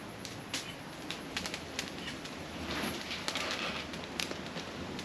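Wood campfire crackling, with irregular sharp pops over a steady rushing noise that swells for about a second midway.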